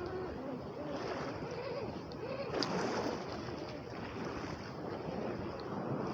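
Lake waves washing against the shore, with wind gusting on the microphone.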